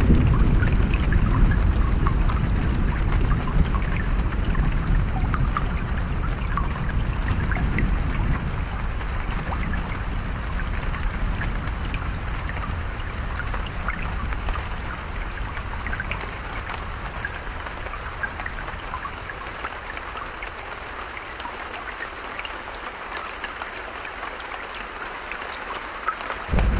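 Steady rain with scattered drops pattering close by. A low thunder rumble dies away over the first several seconds, and a new thunder roll breaks in loudly right at the end.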